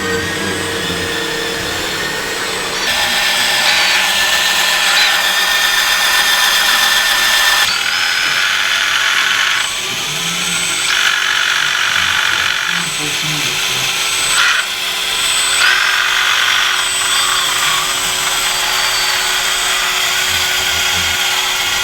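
Small electric motors and gearboxes of radio-controlled model construction machines whining as they work, with high-pitched tones that glide up and down and change abruptly every few seconds.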